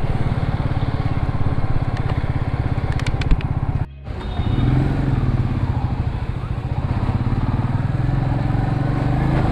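Royal Enfield motorcycle engine running steadily while riding. There is a brief drop about four seconds in, then the engine picks up again.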